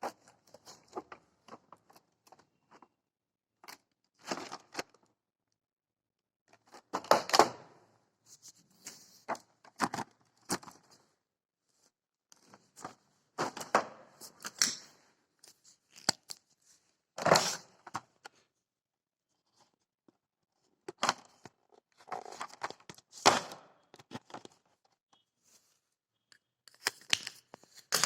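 Parcel packaging being torn and cut open by hand, in irregular bursts of tearing and rustling with short pauses between them.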